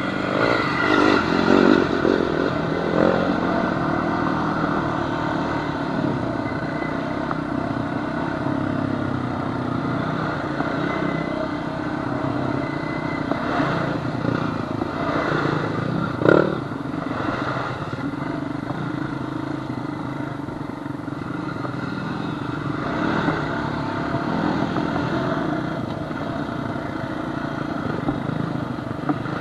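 Honda Fourtrax quad's engine running steadily as it rides a rough trail, with clattering over the bumps in the first few seconds. A single sharp knock, the loudest sound, comes about sixteen seconds in.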